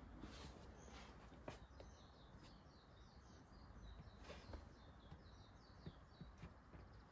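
Near-silent woodland ambience: a bird sings a quick run of short high notes from about two seconds in until about five seconds in, with a few faint clicks scattered through.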